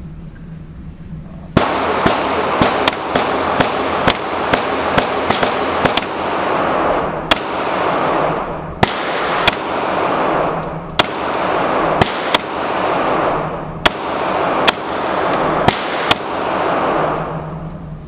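A string of about twenty 9mm shots from a CZ 75 SP-01 Shadow pistol, starting about a second and a half in, fired at an uneven pace of roughly one or two a second, each shot trailing a long echo.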